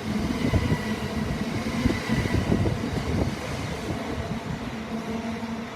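Class 387 electric multiple units running through a station, wheels and traction equipment rumbling and fading as the train moves away. A flat wheel somewhere on the train, by the spotter's ear.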